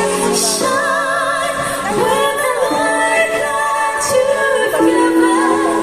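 A vocal group singing in harmony, several voices holding long notes with vibrato.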